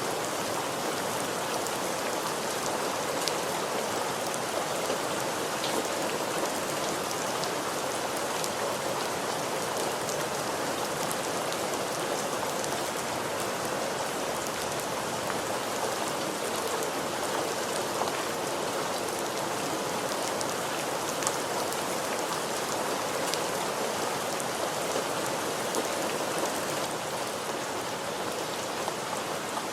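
Steady rain falling on a surface, an even hiss sprinkled with many small drop ticks.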